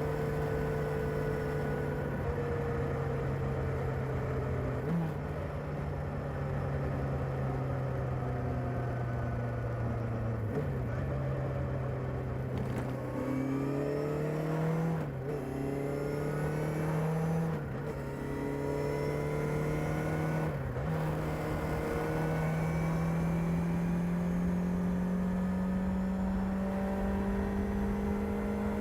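Kawasaki ZR-7S motorcycle's air-cooled inline-four engine on its stock exhaust, running at a steady engine speed. The note briefly breaks and steps in pitch about five times, then climbs slowly over the last several seconds.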